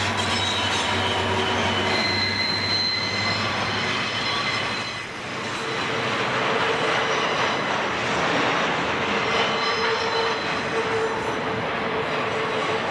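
Intermodal freight cars rolling past close by on a sharp curve, their wheel flanges squealing against the rail in steady high tones over the rumble and clatter of the trucks. Briefly quieter about five seconds in as a gap between cars goes by.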